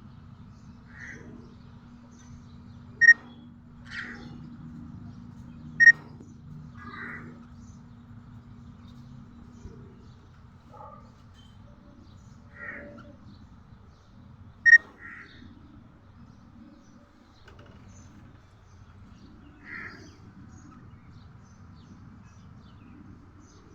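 Pet budgerigar giving short, scattered chirps, three of them sharp and loud.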